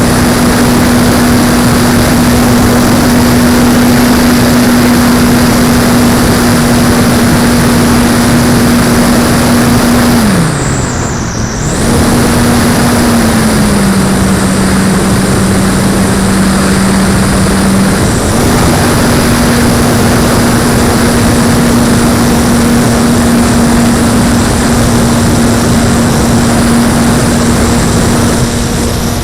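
Brushless electric motor and propeller of an Apprentice S 15e RC trainer plane running at steady throttle, heard from on board with a heavy rush of wind. About ten seconds in, the whine drops sharply as the throttle is cut, then comes back. It runs a little lower for a few seconds before returning to its earlier pitch.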